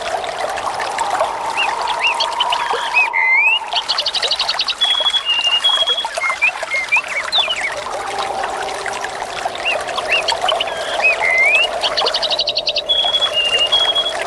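Water trickling and splashing steadily, with birds chirping throughout. Twice, about nine seconds apart, the same short run comes round: a rapid buzzy trill and then a few flat whistled notes, as in a looped nature recording.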